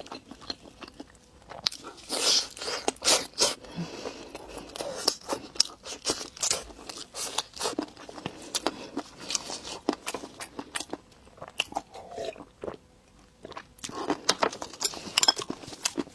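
Close-miked crunchy biting and chewing of food, a rapid run of sharp crackling crunches with a brief lull about three quarters of the way through.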